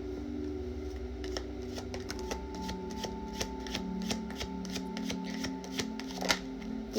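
Tarot cards being shuffled by hand: a run of quick, irregular card clicks and flicks.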